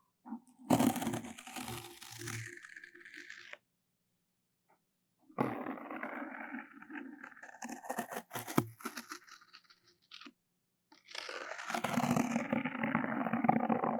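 Close-up ASMR trigger sounds: scratchy rubbing, crinkling and scraping at the microphone in three bouts separated by short pauses, with a few sharp clicks in the middle bout.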